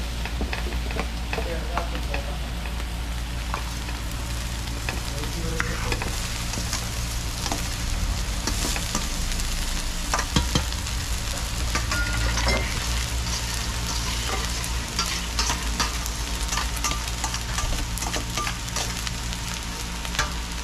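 Food sizzling as it fries in a pot, stirred with a utensil that clicks and scrapes against the pot many times.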